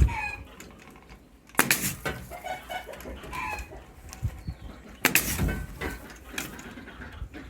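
Pneumatic staple gun firing twice, two sharp shots about three and a half seconds apart, fastening chicken wire. Chickens cluck briefly in between.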